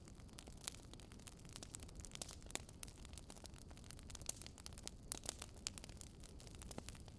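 Campfire crackling faintly: irregular small pops and snaps of burning wood over a steady low hiss.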